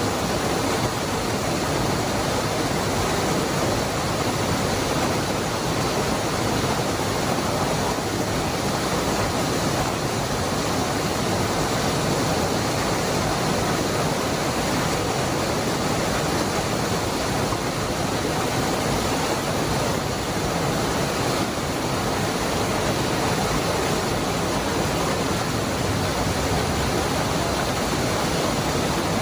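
Waterfall pouring, a steady, dense rush of falling water with no breaks or changes.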